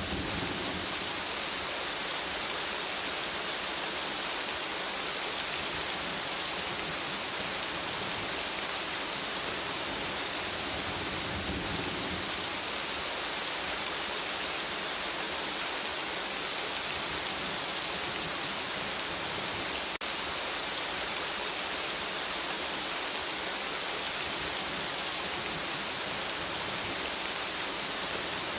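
Steady rain falling on forest foliage, an even hiss of countless drops. A brief low rumble of distant thunder comes about eleven seconds in.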